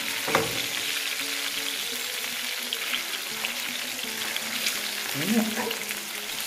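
Eggs frying in hot fat in a pan, a steady sizzle.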